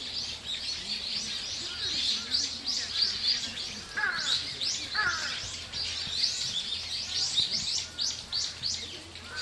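Forest bird chorus: many small birds chirping and singing at once in quick, overlapping high notes, with a few downward-sliding calls about four to five seconds in.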